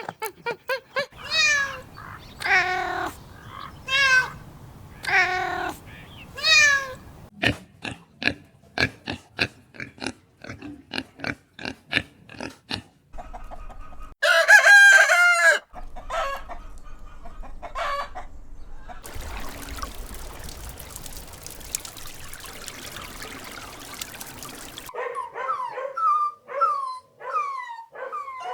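A run of short farm-animal clips: hens clucking and a rooster crowing, with a dog whimpering in short falling calls at the start and again near the end.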